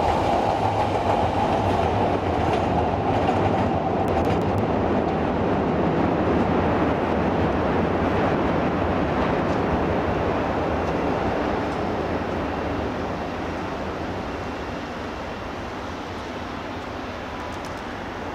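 Chicago 'L' rapid-transit train running on elevated track close by, its wheels rolling over the rails. The sound is loud and steady at first and fades away over the last third as the train moves off.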